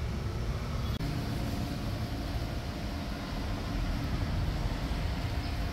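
Hindustan Ambassador's engine idling, a steady low rumble.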